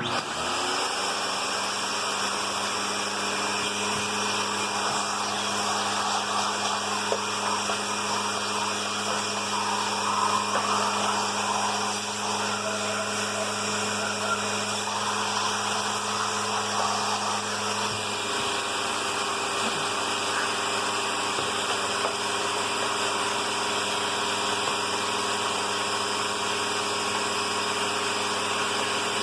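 Eureka Victory bagged vacuum cleaner switched on, its motor spinning up quickly to speed and then running steadily while its hose sucks dirt out of another vacuum. About 18 seconds in, the motor's pitch shifts slightly as the suction load changes.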